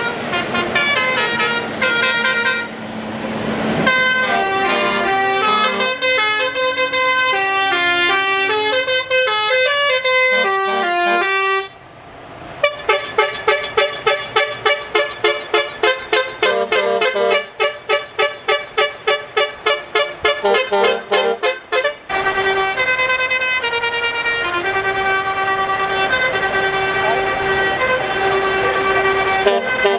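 Truck musical air horns playing a tune in stepped notes. Partway through they switch to about ten seconds of rapid staccato blasts, about three a second, then go back to the melody.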